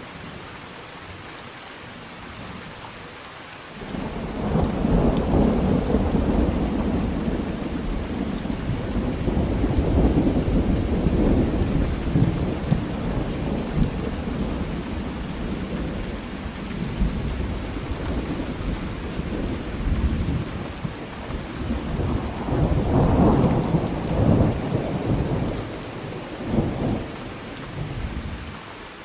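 Thunderstorm: steady rain falling, with a long rolling thunder rumble that breaks in about four seconds in, swells twice and dies away near the end.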